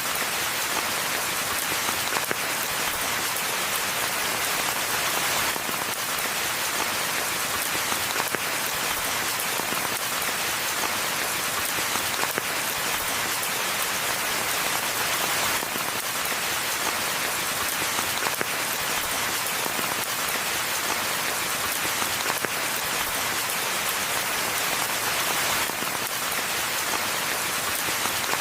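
Steady rain falling on a forest path and foliage, an even hiss of many drops with faint scattered patters.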